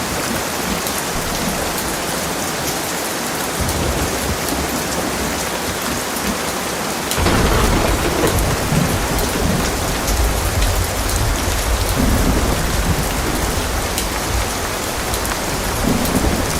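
Heavy rain pouring steadily, with fine drop ticks. About seven seconds in, a low thunder rumble sets in and rolls on to the end.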